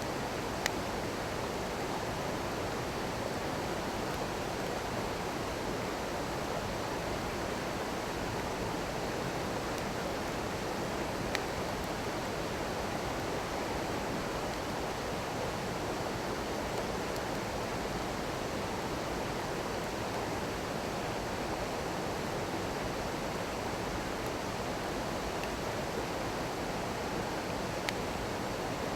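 A small stream babbling steadily, with a wood fire giving a few sharp crackling pops: one about a second in, one about eleven seconds in, and one near the end.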